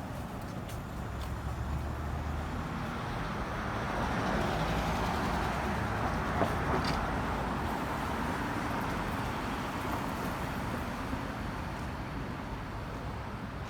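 City street traffic: road noise of passing cars and buses that swells to its loudest in the middle and fades again, over a low rumble of wind on the microphone.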